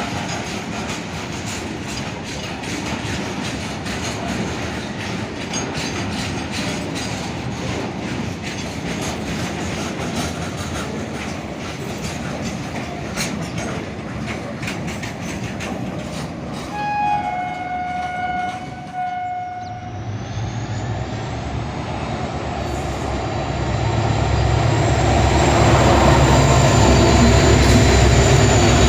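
Indian Railways train passing with wheels clattering over the rail joints. About two-thirds of the way through, a locomotive horn sounds for about two and a half seconds, a short higher note and then a lower one. After the horn, a locomotive's deep rumble with a high, steady whine grows louder.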